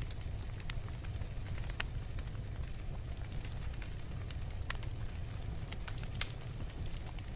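Log fire burning in a fireplace: a steady low rumble of the flames with irregular sharp crackles and pops, the loudest pop about six seconds in.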